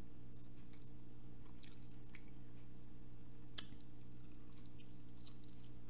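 Close-miked chewing and biting on a barbecue chicken wing: wet mouth clicks and smacks scattered throughout, over a steady low hum.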